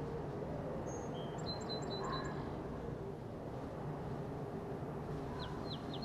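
Small birds chirping now and then: a run of short, high chirps about a second in, and three quick falling notes near the end, over a steady low outdoor rumble.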